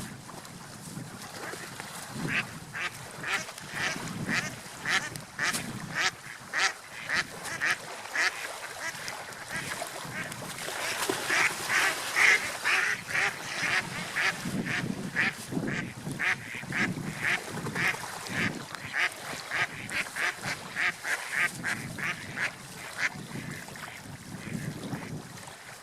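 Ducks quacking, a long run of short calls coming several a second, loudest around the middle.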